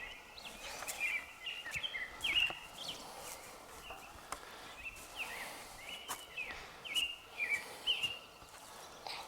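Small birds chirping, a steady run of short, sharp, repeated calls, with a few faint clicks between them.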